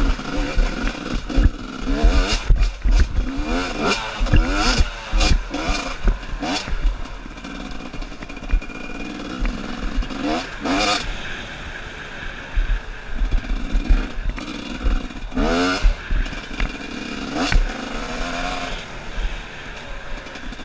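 Dirt bike engines revving up and down again and again, with knocks and clatter throughout.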